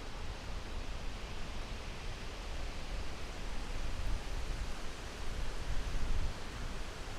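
Steady wind blowing, a broad rushing noise heaviest in the low end, swelling and easing gently in gusts.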